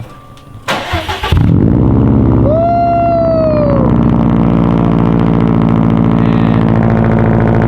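Subaru WRX STI's turbocharged flat-four cranking briefly on the starter and catching about a second in, then idling loudly and steadily through a newly fitted Tomei cat-back exhaust. A short tone that rises and falls rings out over the idle about two seconds in.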